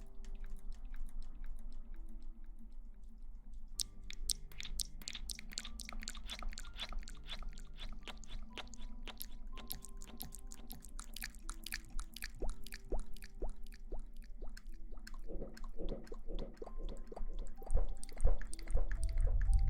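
Close-miked ASMR crackling and squishing: dense, quick, crisp crackles start about four seconds in, over a faint slow background melody. Near the end a louder low rumbling swish comes in.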